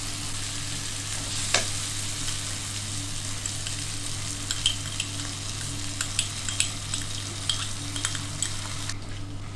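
Onion and tomato masala sizzling in a nonstick frying pan while a spatula stirs it, with scattered light taps and scrapes of the spatula on the pan that come more often in the second half. A steady low hum runs underneath.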